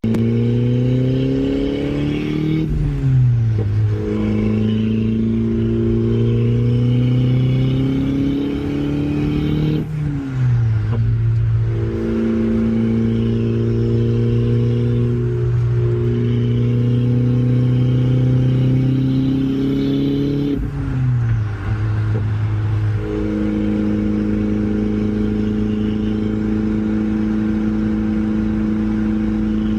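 Turbocharged Audi engine accelerating through the gears, its pitch climbing steadily and dropping sharply at gear changes about 3, 10 and 21 seconds in, then holding steady at cruise. It is running a freshly flashed ECU tune with a raised boost target.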